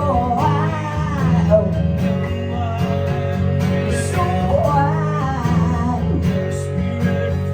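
Live acoustic guitar strummed under a woman's singing voice in a pop-rock song.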